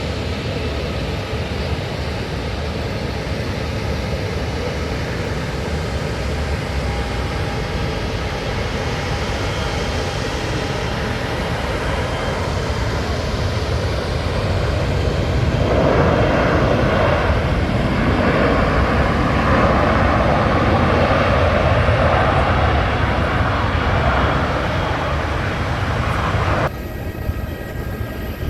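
Airbus A330-300 jet airliner's engines: a steady rushing jet noise with faint whining tones, growing louder about halfway through as the aircraft nears, then cutting off abruptly near the end.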